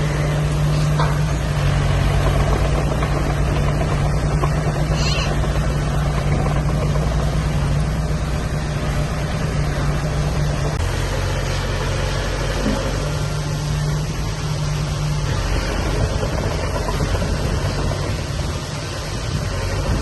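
Heavy diesel engine of earthmoving machinery running steadily, a low hum whose pitch shifts about eleven seconds in and again a few seconds later.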